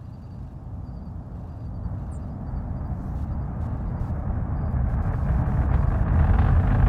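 Deep rumble of a SpaceX Falcon 9's nine Merlin engines at launch, arriving at a distance and swelling steadily louder.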